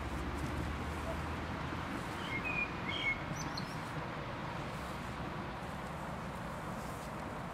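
Outdoor ambience: steady background noise with a few short bird chirps about two to three seconds in.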